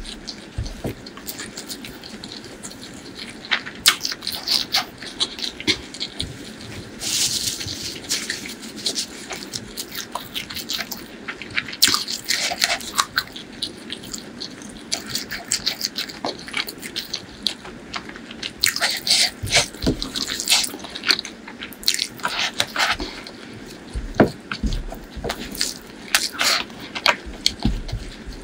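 Close-miked chewing of a crisp fried topping eaten by hand: irregular crunching and wet mouth clicks, with louder clusters of crackles now and then.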